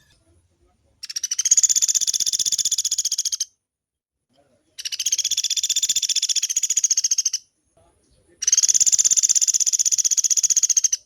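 Pelatuk beras woodpecker calling: three long, rapid rolling trills of fast repeated high notes, each about two and a half seconds long, with short pauses between them.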